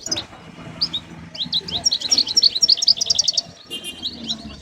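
Caged songbirds chirping and singing, a dense run of quick high notes that is thickest in the middle.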